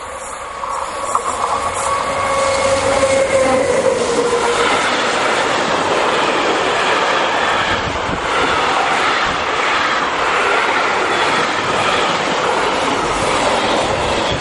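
Combined freight train hauled by an SNCF BB 26000 (Sybic) electric locomotive passing at speed. A tone from the approaching locomotive drops in pitch about four seconds in as it goes by. Then the container and tank wagons roll past with a steady loud clatter of wheels on rail.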